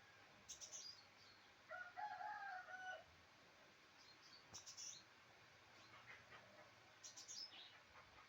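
A rooster crowing once, faintly, heard from indoors; the crow lasts a little over a second. Small birds give short, high chirps before and after it.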